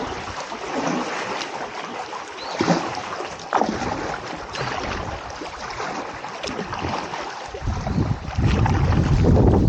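Kayak paddle strokes splashing and dripping in river water, several soft splashes a second or so apart. About two thirds of the way in, wind starts buffeting the microphone with a loud low rumble.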